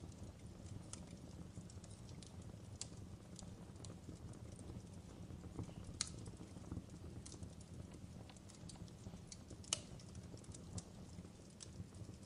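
Wood fire crackling in a fireplace: irregular sharp pops and snaps over a steady low rumble, with two louder pops about six and ten seconds in.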